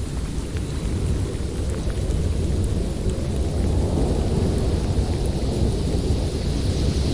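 Snowstorm wind blowing steadily as a deep rumbling roar, swelling into a stronger gust about four seconds in.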